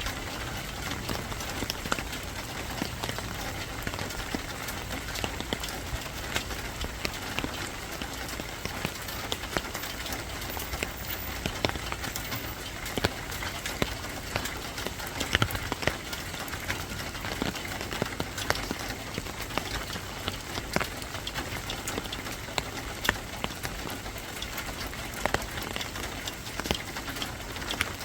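Steady rain falling, with many scattered sharp taps of drops striking a surface.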